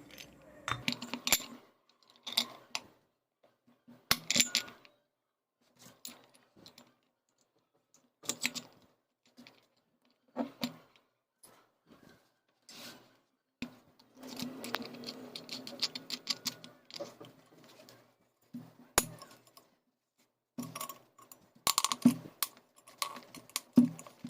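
Small metal parts and tools clinking and knocking as a bearing puller is fitted and worked to pull the upper ball bearing off a ceiling fan's motor: scattered clicks and rattles, with a quick run of ticks a little past halfway.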